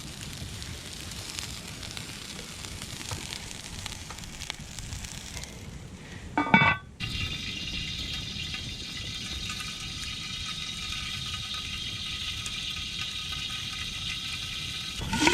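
Peppers frying in olive oil in a cast-iron pan over campfire coals, a steady sizzle. A brief loud sound breaks in about six and a half seconds in; after it the sizzle is brighter and steadier.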